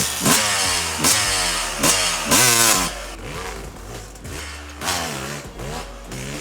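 Dirt bike engine revving hard, its pitch climbing and dropping over and over as the throttle is worked, with louder surges a few times.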